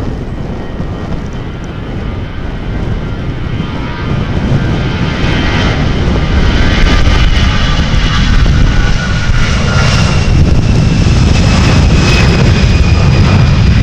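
Airliner engines passing close by, growing louder from about four seconds in: a high whine over a low rumble.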